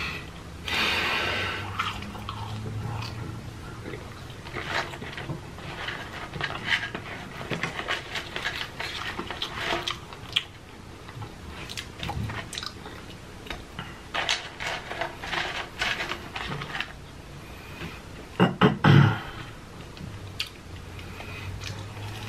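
Close-miked eating sounds: wet chewing and lip smacking of french fries and chicken nuggets, a dense run of small irregular clicks. There are louder mouth noises about a second in and twice near the end.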